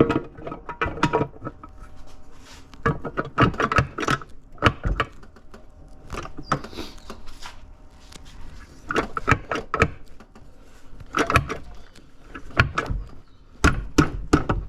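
Irregular metallic knocks and clinks of a Honda K-series transmission case and its parts being handled and worked together on a workbench, coming in several short clusters.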